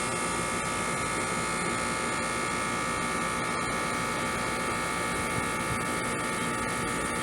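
Trane air conditioner condenser unit running steadily, an even buzzing hum of the compressor and condenser fan. The compressor is running only with a hard-start capacitor and start relay added, because a new run capacitor alone would not start it.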